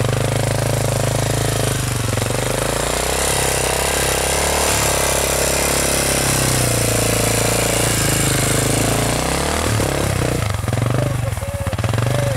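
Honda XR650 single-cylinder dirt bike engine running under throttle while riding through snow. The engine note rises and falls with the throttle, dipping a few times near the end.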